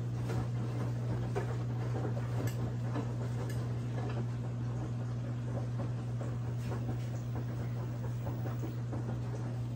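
Brastemp 17 kg washing machine running mid-cycle: a steady motor hum with irregular light clicks and patters from the drum.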